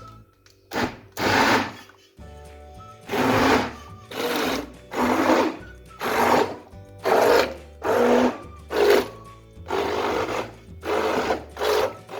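Electric kitchen blender run in about a dozen short pulses, each roughly half a second long, with quiet gaps between them.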